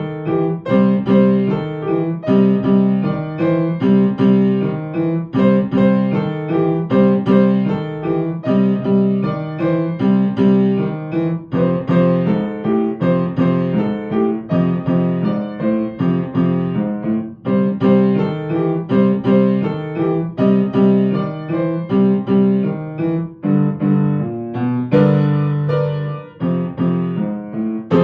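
Solo piano playing a blues piece, with steady, evenly paced struck chords over a repeating bass line.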